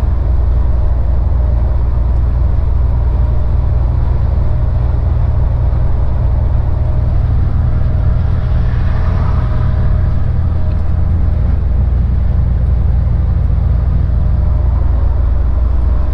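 Truck's diesel engine running steadily under load on an uphill climb, heard from inside the cab as a deep, constant drone.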